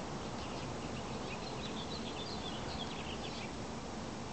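Small birds chirping in quick runs of short high notes, busiest through the middle, over a steady low background hum of outdoor noise.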